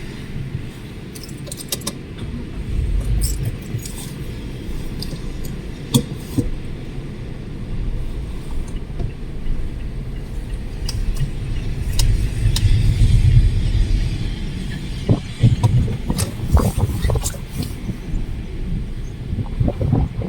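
Strong gusty wind buffeting the microphone in a storm: a low rumble that swells and fades, strongest about twelve seconds in, with scattered clicks and crackles.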